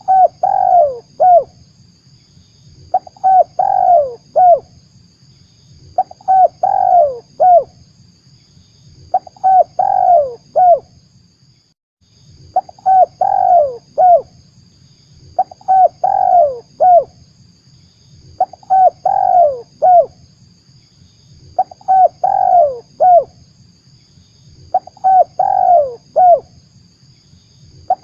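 Spotted dove (tekukur) cooing: a short phrase of several falling coo notes, repeated about every three seconds, nine times. It is a lure call recording used to draw in wild spotted doves for trapping.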